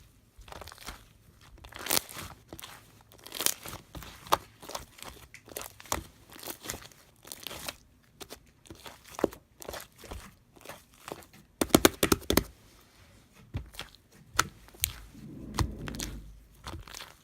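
Blueberry sherbet slime being squeezed, stretched and pressed by hand, giving irregular crackles and pops, with a quick run of crackles about twelve seconds in.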